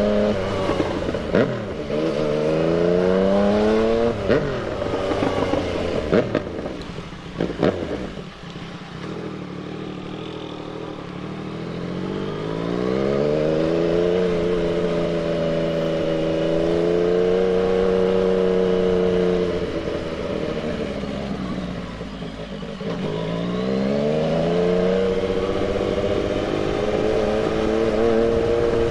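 Yamaha MT-09's three-cylinder engine under way: it revs up through a couple of gear changes, then backs off with a few sharp cracks and falls to a low, quiet pitch. Near the middle it pulls up again and holds a steady cruise. It drops back once more and climbs again near the end.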